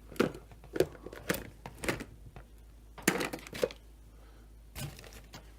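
Chainsaw parts and tools being handled on the bench: about seven irregular short clicks, knocks and crinkles.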